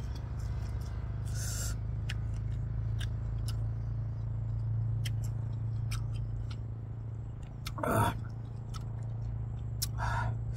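Close-up eating sounds: wet mouth clicks and lip smacks while chewing sour tamarind, with short breathy slurps, the loudest about eight seconds in, over a steady low hum.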